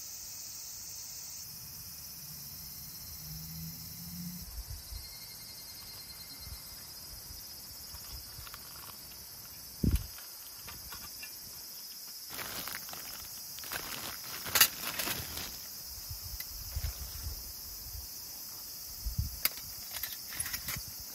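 Steady high-pitched chirring of summer insects. Over it come scattered clicks and knocks of things being handled, with one sharp thump about halfway through and a cluster of clicks in the second half.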